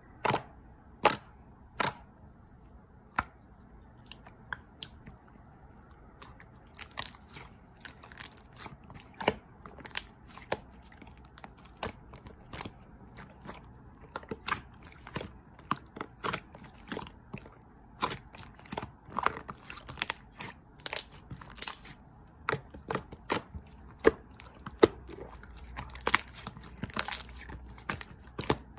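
Pink slime being squished, stretched and poked by hand, giving irregular sticky pops and clicks. The pops are sparse at first and come thick and fast from about a quarter of the way in.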